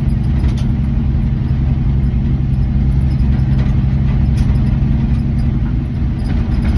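A 1967 Dodge D100's 225 slant-six engine running steadily while the truck drives along, with a couple of faint clicks over it.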